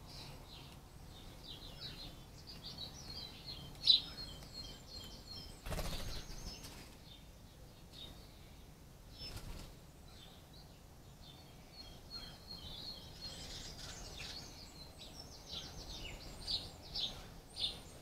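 Small songbirds chirping and trilling in short, high phrases throughout, with one loud, sharp chirp about four seconds in. A brief rushing sound, like a flutter of wings, about six seconds in.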